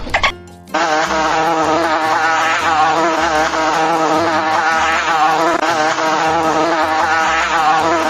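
A steady, wavering insect-like buzz starting about half a second in, over background music with a stepping bass line.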